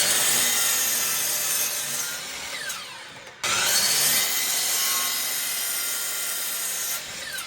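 Power saw cutting through 2x6 lumber: two cuts of about three seconds each, the second starting suddenly about halfway through, the blade's pitch falling as it winds down after each.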